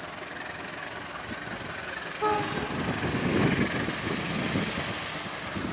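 Passenger train hauled by a GE CC206 diesel-electric locomotive passing on a curve, engine and wheels rumbling, growing louder after the middle. About two seconds in, the locomotive horn gives a short toot.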